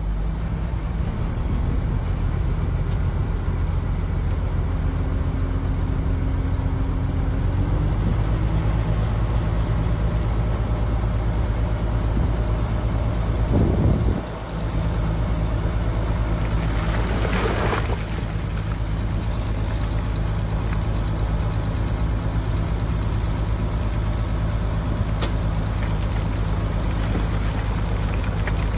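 Heavy diesel engine of a Shantui bulldozer running steadily at work. The engine sound dips briefly about halfway through, and a short hiss follows a few seconds later.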